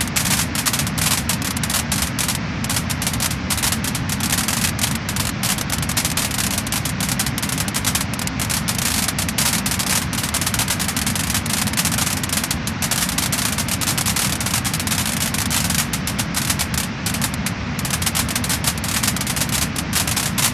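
Wood-burning fire crackling and popping: a dense, continuous run of sharp crackles over a steady rushing hiss.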